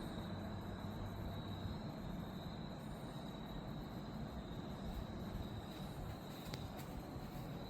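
A steady high-pitched tone held without a break over a low background hiss, with a couple of faint ticks near the end.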